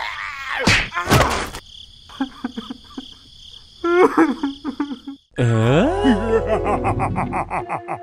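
Cartoon soundtrack: squeaky, pitch-shifted gibberish voices of animated characters over a steady high, insect-like trill. Two quick hits come about a second in, and a rapid even ticking with a low hum sets in past the halfway point.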